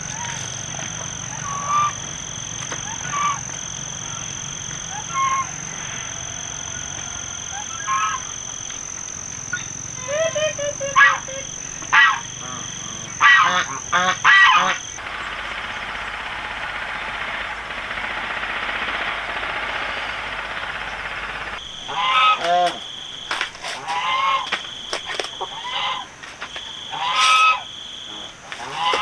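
Farm animals calling in short, repeated, honking cries in two bouts, over a steady high-pitched whine. In the middle there is a stretch of even hiss.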